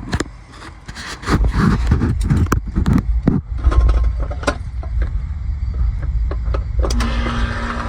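Air-conditioning condensing unit starting up, its compressor fitted with a hard start kit: clicks and knocks in the first few seconds, then a low rumble, and a steady hum settling in near the end as the unit runs.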